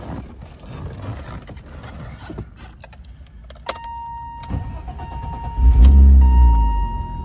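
1990 BMW E30 M-Technic II convertible cold-starting. A steady beep comes on, the starter cranks for about a second, and the cold engine catches with a loud flare of revs that rises and then falls back toward a fast idle.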